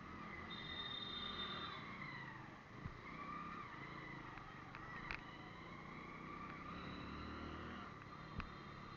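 Road vehicle engines running, with pitch that wavers slowly up and down over a steady road noise, and a few short clicks.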